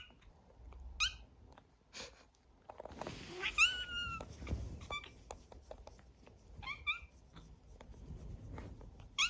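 Domestic cat meowing in short, high-pitched calls, about six times, with a longer meow about three and a half seconds in.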